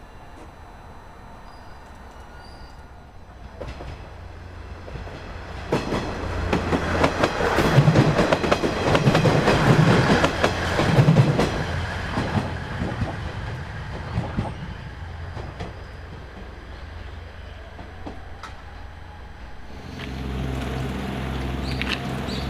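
A JR East GV-E400 series diesel-electric train passes, building up, then fading away, with the clickety-clack of its wheels over rail joints loudest midway. Near the end a low steady drone sets in.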